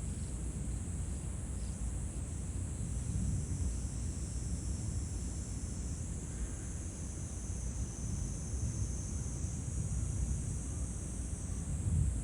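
Steady high-pitched chorus of insects such as crickets, over a low rumble of background noise.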